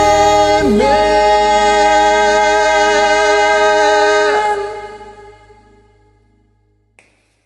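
A song ends on a long held sung note over a backing track with bass. The note stops about four seconds in and dies away in reverberation, and a faint click follows near the end.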